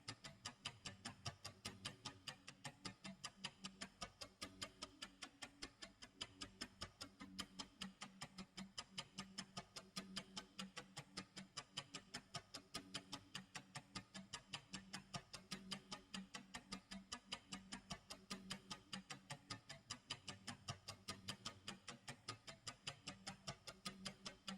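Clock tick-tock sound effect: an even, continuous run of sharp ticks.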